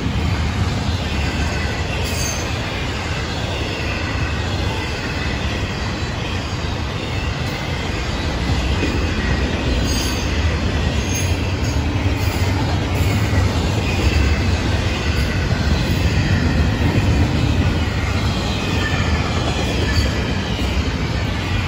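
Florida East Coast Railway intermodal freight cars rolling past: a steady rumble of steel wheels on rail, with a faint, wavering high wheel squeal and a few sharp clicks.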